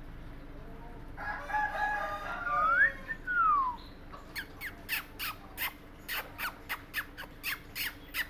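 A pet parrot calling: a wavering call with sliding whistle notes for about two and a half seconds, then a quick run of short, sharp, falling chirps, about three to four a second.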